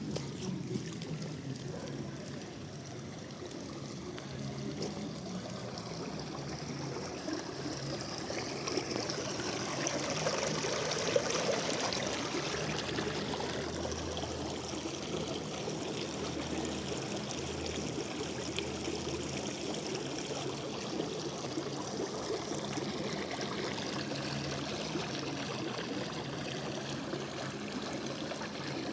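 Rainwater pouring and gushing steadily out of a street storm drain during heavy rain.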